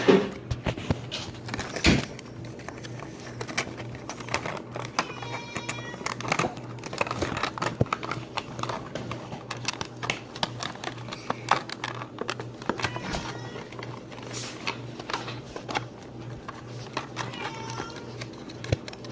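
Small plastic toy figures and props being handled, with many light clicks, taps and crinkles. Two short high-pitched tones come about five seconds in and again near the end.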